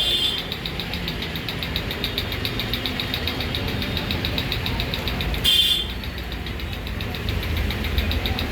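Steady low engine-like rumble with a fast, even high-pitched ticking over it, and a brief loud hiss about five and a half seconds in.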